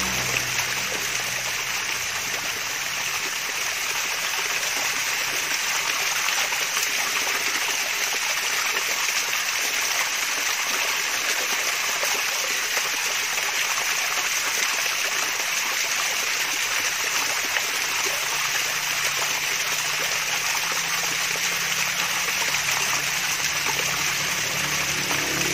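Small cascade of water splashing and trickling steadily, a continuous bright rush of running water.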